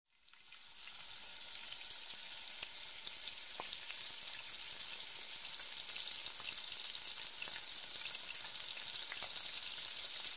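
Vegetables stir-frying in hot oil in a wok, turned with a wooden spatula: a dense, steady sizzling hiss with many small crackling pops. It fades in over the first second.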